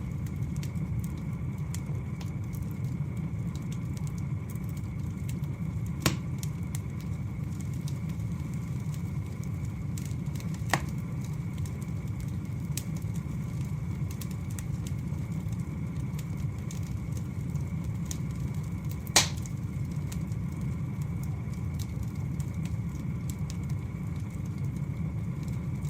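Wood fire burning with a steady low rumble and faint crackling, and three sharp pops of the burning logs, about 6, 11 and 19 seconds in.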